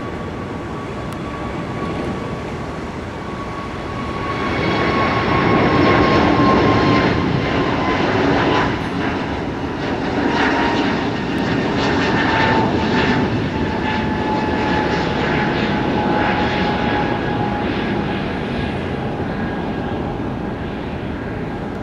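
Jet airliner's engines as the aircraft passes on the runway. The sound swells about four seconds in and is loudest a few seconds later, with a whine that slowly falls in pitch over a steady rush of noise.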